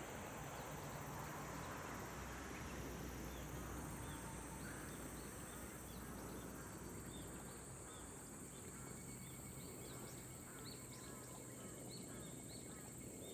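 Rice-paddy night-style ambience: insects trill steadily in high-pitched bands over a soft hiss. From about three seconds in, a run of short, evenly repeated chirping calls joins them, growing busier toward the end.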